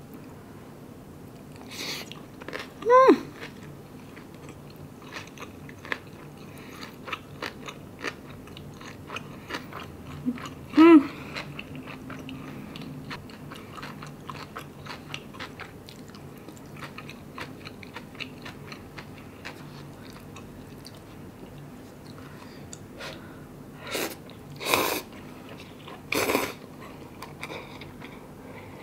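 Mouth sounds of eating kimbap (seaweed rice roll) and kimchi: steady chewing with many small wet mouth clicks, and two brief hummed 'mm' sounds. Near the end, a few louder slurps of broth from an instant-noodle cup.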